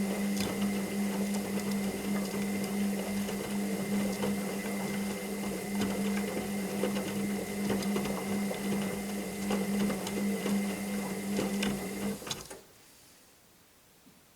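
Washing machine running: a steady motor hum with a higher whine over it and scattered clicks and rattles. It cuts off suddenly about twelve seconds in.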